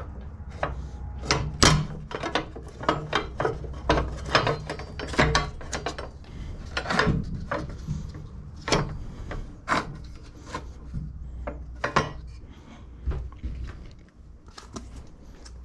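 Irregular clicks and knocks of hand work on the Stiga Euro 50SH mower's front height adjuster, with a low steady hum underneath; the knocks thin out near the end.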